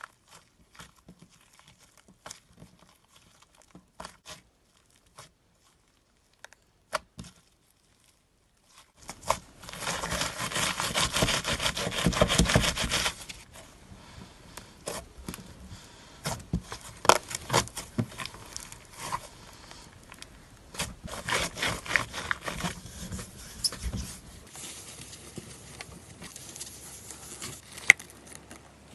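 Slime being squeezed and stretched by hand: scattered sticky clicks at first, then from about nine seconds in a few seconds of dense, loud crackling, followed by intermittent crackles and pops.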